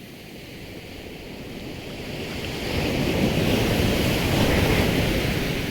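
Sea waves washing in: the surf swells up from about halfway through, then begins to ease near the end, with some wind on the microphone.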